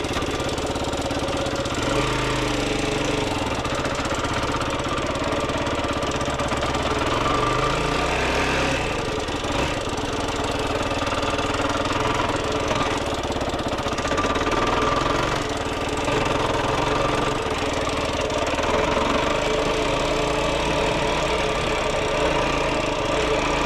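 Yamaha YFZ450R quad's single-cylinder four-stroke engine running while it is ridden. The engine note steps up and down every few seconds as the throttle and gears change.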